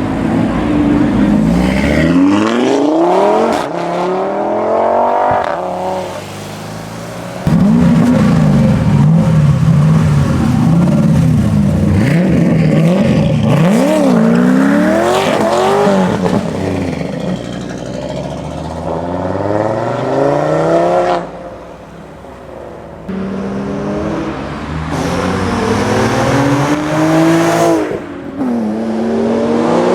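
Tuned, high-powered car engines revving and accelerating, their pitch sweeping up and falling back again and again, with abrupt changes in loudness as one car's sound gives way to another's.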